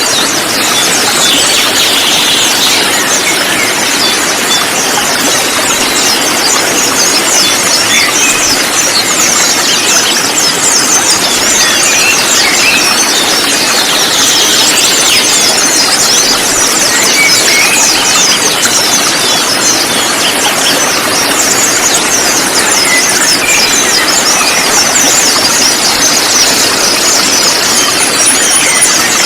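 A dense chorus of many konin birds chirping and twittering rapidly at a high pitch, over a loud, steady hiss.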